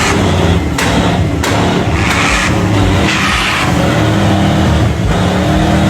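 Car engine running and revving, loud and close.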